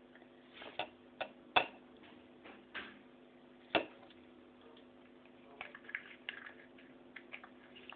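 Scattered sharp clicks and small taps of makeup containers and caps being handled, a few louder ones in the first four seconds, then a run of lighter ticks, over a faint steady hum.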